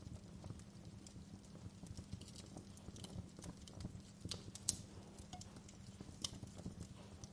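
Wood fire burning in a fireplace, crackling with irregular small pops over a low, steady rumble, with a sharper pop near the middle and another about six seconds in.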